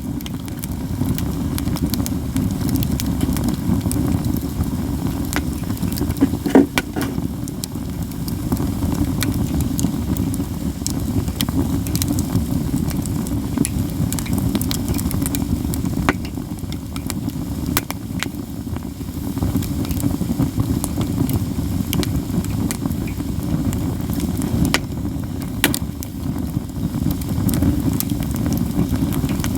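Katsura (Japanese katsura tree) firewood burning in a campfire, crackling constantly with scattered sharp snaps and one louder pop about six and a half seconds in, over a steady low rumble.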